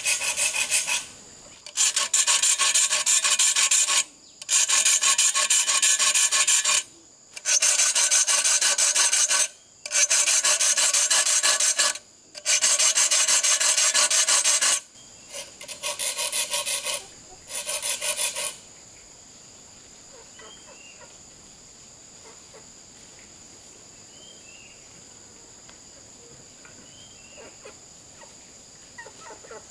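Hand tool rasping against wood in repeated rough bursts of two to three seconds with short pauses, stopping about two-thirds of the way through. After that, a steady high insect buzz with a few short chirps.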